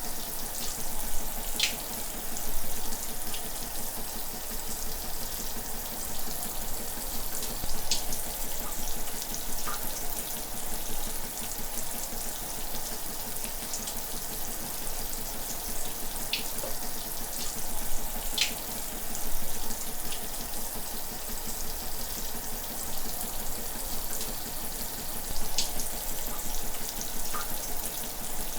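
Shower running steadily, a constant hiss of water spray, with now and then a brief sharper splash.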